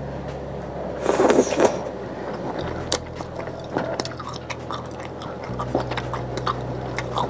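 Close-up eating sounds of chicken sausage: a louder bite about a second in, then chewing with many small wet mouth clicks, over a steady low hum.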